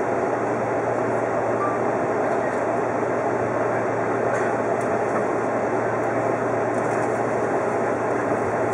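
Steady running noise of an Odakyu 50000-series VSE Romancecar travelling along the line, heard from inside its front car: an even rumble of wheels on rails and running gear at a constant level.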